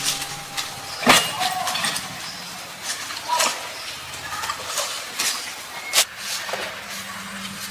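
Irregular knocks and clicks, with two sharper knocks about a second in and about six seconds in.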